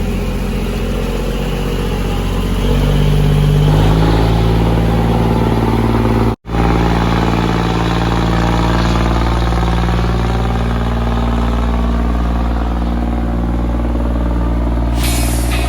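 A boat engine running steadily, picking up speed about three seconds in. The sound drops out for an instant about six seconds in, and a short burst of noise comes near the end.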